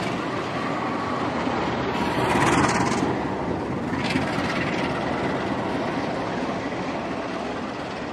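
Diesel-electric locomotive and its passenger coaches pulling out and passing underneath, a steady rumble that is loudest about two and a half seconds in as the locomotive goes by. The sound then eases as the coaches follow, with a single short clunk about four seconds in.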